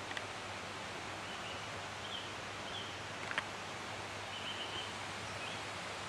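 Steady outdoor hiss with a small bird chirping faintly about five times, and two small clicks, the louder one a little past halfway.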